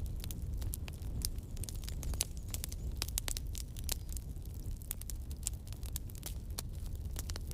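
Wood campfire burning, with many sharp crackles and pops at irregular intervals over a steady low rumble of the flames.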